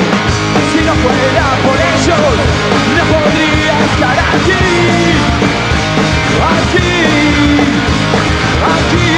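Punk rock band playing live: distorted electric guitars, bass and drums at full volume, with pitched lines bending up and down over a steady driving beat.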